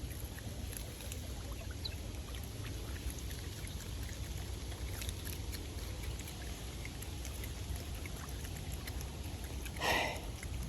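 Steady light rain with trickling water and faint scattered drips. Near the end there is one short, louder sound.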